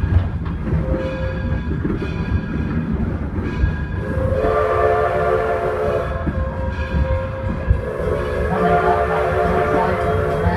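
Steam locomotive whistle blowing two long blasts, about four seconds in and again near the end, over the steady rumble of the train running along the track.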